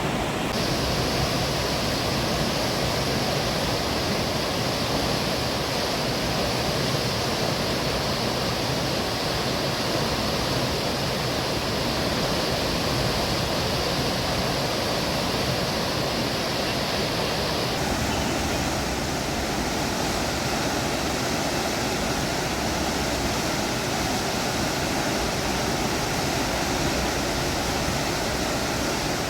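The swollen Chenab river rushing in spate after heavy rain, a steady, dense roar of fast-flowing water. Its tone shifts slightly about two-thirds of the way through.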